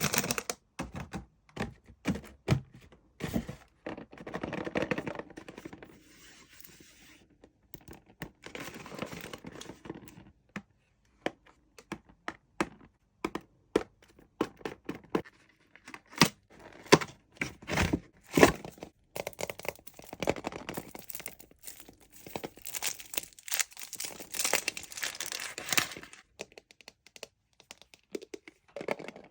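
Kinder Surprise egg being unwrapped and opened: the foil wrapper crinkles and tears in several long spells, between many sharp clicks and knocks from handling the chocolate shell and the plastic toy capsule.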